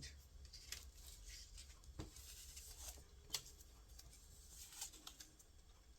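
Near silence with faint handling of paper craft pieces: light rustling and two soft taps, about two seconds in and a little after three seconds.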